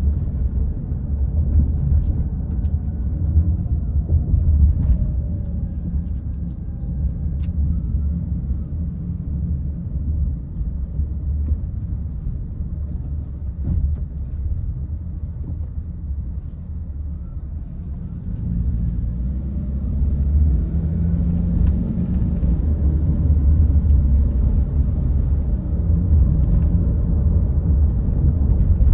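A car being driven: a steady low rumble of road and engine noise. The engine note rises and the sound grows louder about two-thirds of the way through as the car speeds up.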